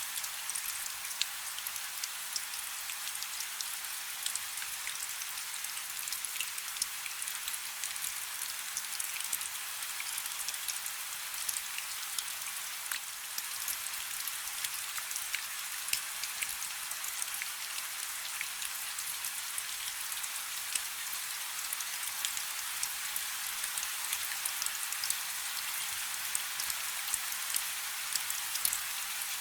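Steady rain falling on a river, a dense hiss with many small drop patters hitting the water.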